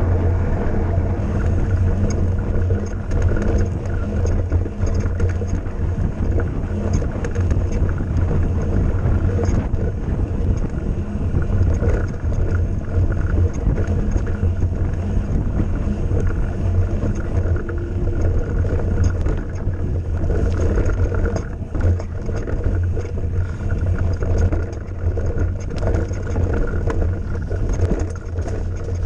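Mountain bike ridden along a dirt trail: a steady deep rumble of wind on the microphone and tyres on the ground, with frequent small knocks and rattles from the bike.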